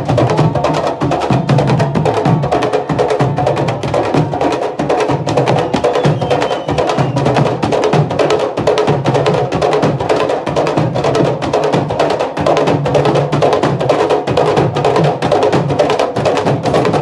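Candombe drums (lonjas) played together in a continuous, fast rhythm of dense hand and stick strokes.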